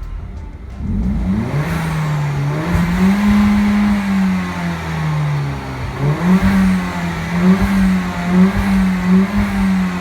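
Citroën DS3 Racing's turbocharged 1.6 THP four-cylinder, fitted with a carbon intake kit and exhaust, pulling under throttle. Its note climbs about a second in, dips briefly around the middle, climbs again and wavers, then falls away near the end.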